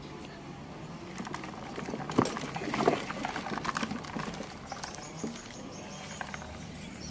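Irregular light tapping and clicking of small hard objects being handled, with two louder knocks about two and three seconds in.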